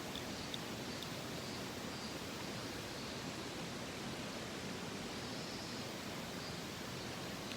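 Steady rush of a mountain stream, with a few faint high chirps now and then.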